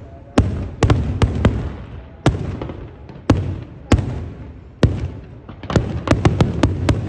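Fireworks going off: about fifteen sharp bangs at uneven intervals, each trailing off in a rumbling echo, bunched closer together near the end.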